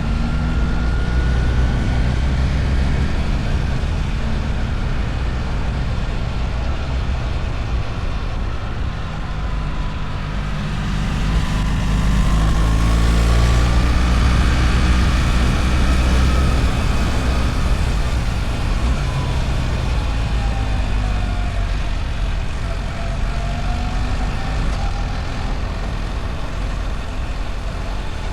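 BMW R1300 GS's boxer twin engine running on the move. Its pitch falls and climbs again twice, as the revs drop and build.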